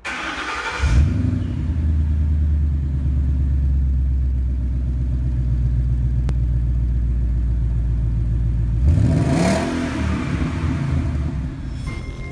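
Car engine sound effect: a deep, steady engine rumble, then about nine seconds in a rev with the pitch sweeping up and down and a whoosh, fading away.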